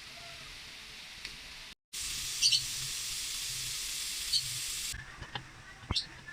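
Food cooking in a pot on the stove: a steady sizzling hiss, louder for a few seconds in the middle, with a few light clicks and knocks near the end.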